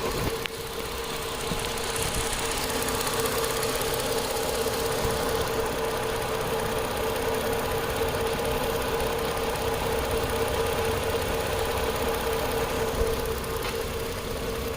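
Nitrogen hissing through the regulator and gauge hoses into the car's A/C system to purge it, over a steady mechanical hum. A click comes right at the start.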